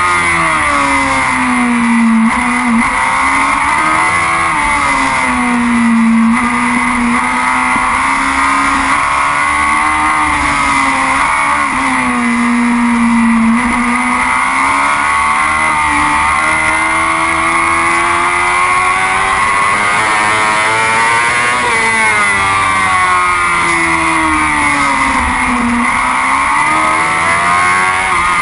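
Yamaha R6 racing motorcycle's inline-four engine running hard at race pace, its pitch rising and falling over and over as the throttle opens and closes through the gears and corners.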